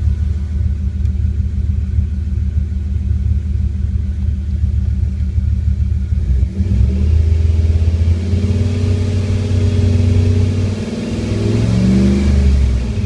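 2001 Dodge Ram Sport's 5.9-litre engine idling with a steady low rumble, then revved up about halfway through and held, eased off briefly, and revved again near the end.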